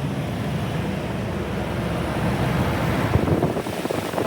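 Toyota 4.7-litre V8 idling steadily, its serpentine belt turning freshly replaced idler and tensioner pulleys that now spin freely, with no squeal.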